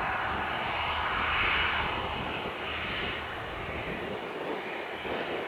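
Airplane engine noise from an aircraft on its takeoff run and climb-out: a broad rushing drone that slowly fades, its low rumble dropping away about four seconds in.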